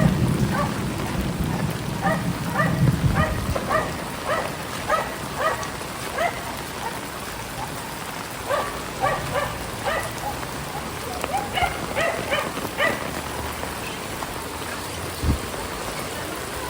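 Heavy rain falling steadily, with a dog barking over it in repeated runs of short barks that stop well before the end. A low rumble comes in the first few seconds, and there is a single low thump near the end.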